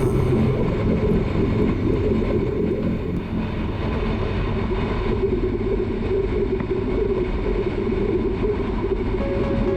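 Motorcycle riding at highway speed: a steady rumble of engine and road and wind noise, with a steady tone coming in near the end.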